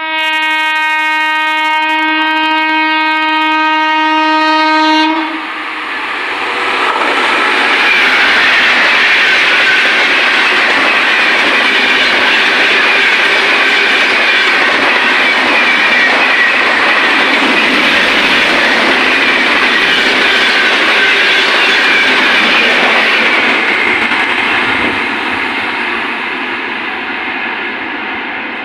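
Indian Railways express train horn sounding one long steady blast for about five seconds, followed by the train passing at speed, around 130 km/h, with rushing wind and wheels clattering over the rail joints. The noise fades from about 24 seconds in as the train recedes.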